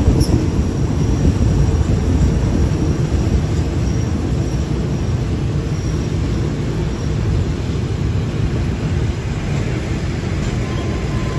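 Passenger train running, heard from inside a third-class carriage: a steady rumble of wheels on rails with air noise, easing a little as the train slows to pull into a station.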